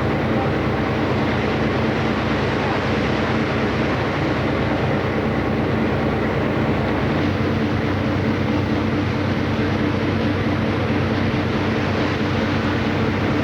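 Steady drone of a passenger motor ship's engine heard on board: a low, even hum under a constant rushing noise. The deepest part of the hum drops away about seven seconds in.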